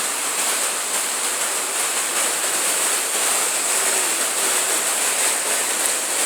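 Whitewater rapids of a river rushing steadily, an even hiss of churning water.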